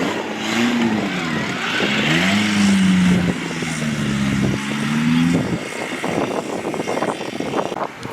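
Off-road 4x4 engine revving under load, its pitch rising and dipping several times over about five seconds, then giving way to rougher, noisier sound.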